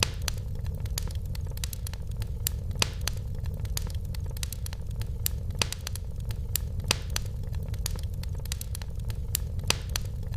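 Wood fire in a fireplace crackling: frequent irregular sharp snaps and a few louder pops over a steady low rumble.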